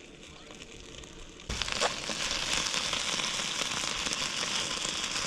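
Rain falling, a dense crackling patter that starts suddenly about a second and a half in and stops just as suddenly.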